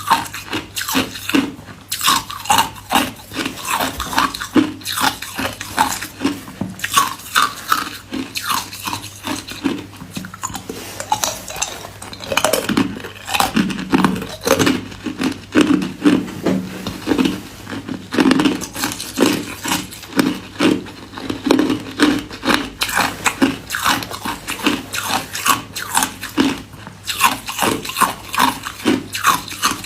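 A person biting and chewing hard white ice cubes: a dense run of crunches and cracks, several a second, without a break.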